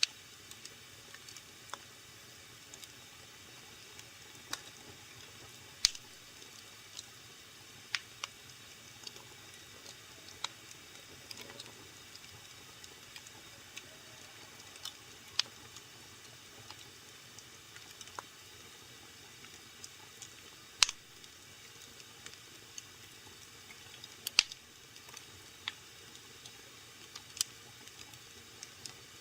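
Wood fire burning in a fireplace: a low steady hiss with scattered sharp crackles and pops at irregular intervals, the loudest about 6, 21 and 24 seconds in.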